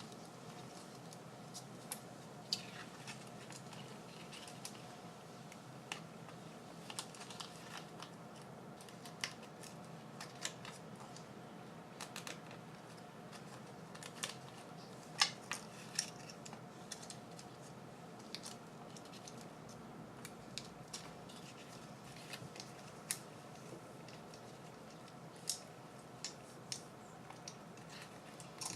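Faint, scattered light clicks and taps of hands working with paper and craft supplies, over a steady low hum.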